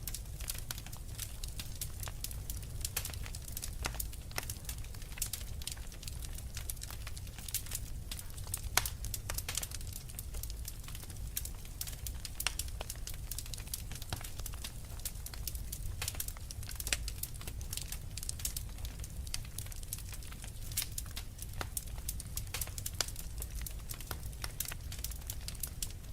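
Wood fire crackling in a fireplace: frequent irregular sharp pops and snaps from burning logs over a steady low rumble.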